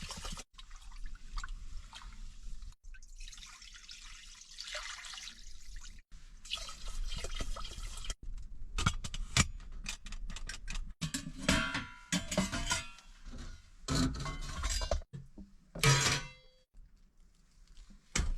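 Water pouring and sloshing in a cooking pot as rice is rinsed, followed by clinks and knocks of the metal pot and utensils.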